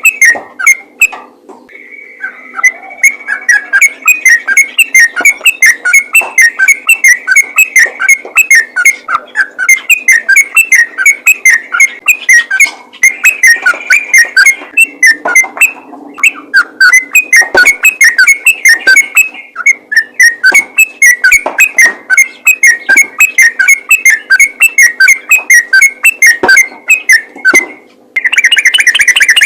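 Yellow-vented bulbul (trucukan) singing its rapid rolling 'ropel' song: a fast, loud stream of short whistled notes. Near the end the song breaks off and a denser, buzzing trill starts.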